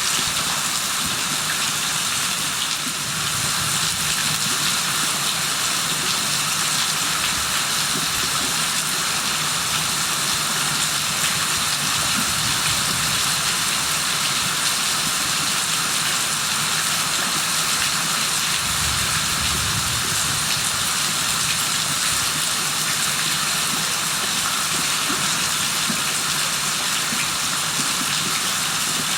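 Steady, dense hiss of rain falling. Twice a brief low rumble sounds underneath it.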